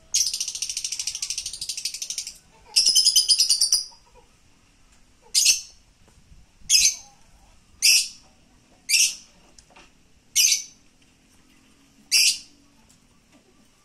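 White-rumped shama (murai batu) calling: two fast, rattling trills of a second or two each, then a run of short, sharp, high calls one to two seconds apart.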